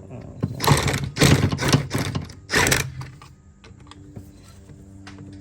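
Metal hand tools and parts clattering and clicking in a quick run of short rattles, about half a second to three seconds in, while work goes on under the car, over a faint steady hum.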